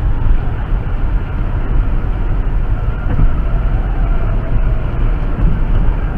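Steady low rumble of a moving vehicle: engine and road noise as picked up by a dash camera inside the car.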